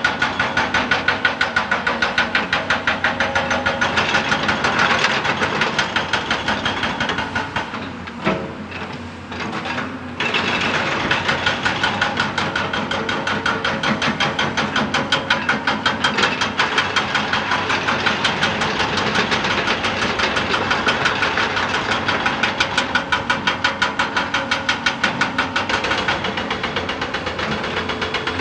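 Excavator-mounted hydraulic rock breaker hammering rock in a rapid, steady run of blows, several a second. The blows stop for about two seconds around eight seconds in and pick up again about ten seconds in.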